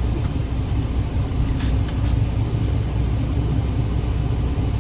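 Tractor-trailer's diesel engine running steadily, heard from inside the cab, with a few light clicks about two seconds in.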